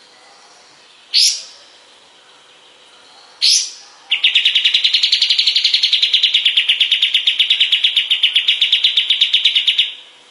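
Kapas tembak songbird singing: two quick upward-sweeping whistles, then a long rapid trill of about ten notes a second that lasts roughly six seconds and stops near the end.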